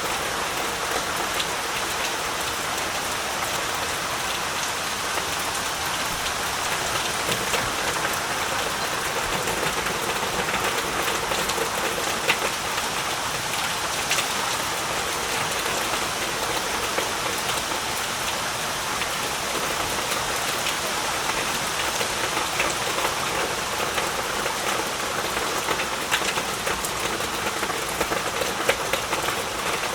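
Heavy rain falling steadily, a dense even hiss with many individual drops ticking on surfaces.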